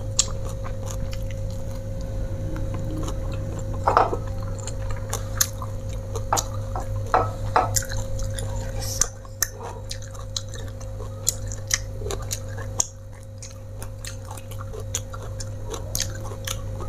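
Close-miked chewing of raw greens and petai with sambal, with many small mouth clicks, over a steady low hum.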